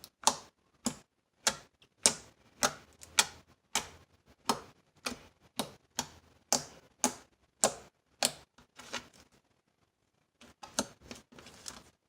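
Homemade glue slime being squeezed and worked in the hands, giving sharp clicking pops about twice a second; they stop about eight seconds in, and fainter, quicker clicks follow near the end.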